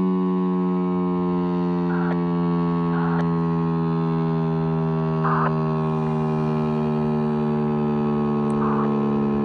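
Federal Signal STL-10 outdoor warning siren sounding a steady alert tone, its pitch drifting slightly lower. A few short raspy blips cut in over it.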